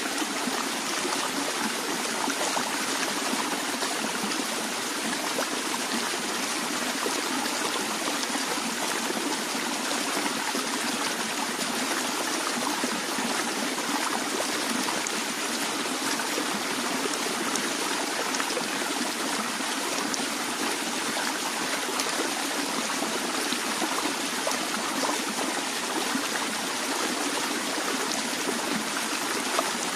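Water flowing gently in a natural stream, a steady trickling and babbling.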